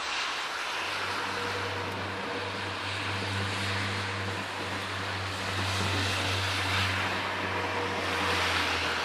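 SBB electric locomotive hauling a passenger train, a steady rolling rumble with a low electric hum, growing a little louder toward the end.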